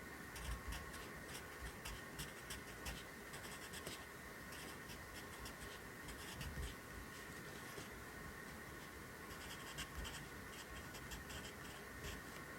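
Pencil writing Korean characters on paper: quick, short scratchy strokes in clusters with brief pauses between them.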